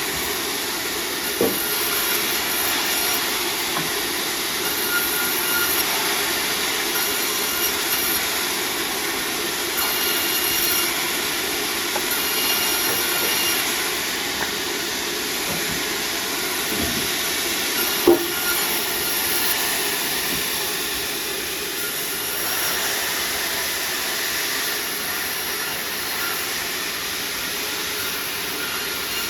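Sawmill saw running steadily while cutting sengon timber, a constant dense machine noise. A few knocks of wood on the machinery, the loudest about eighteen seconds in.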